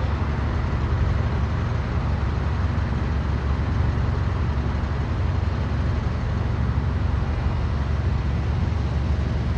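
Hydro-excavating vacuum truck running steadily: a constant low rumble with a broad hiss over it.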